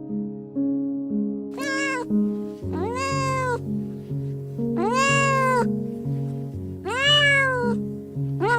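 Domestic cat meowing four times, each meow rising then falling in pitch, about two seconds apart, with a fifth starting at the end, over background music.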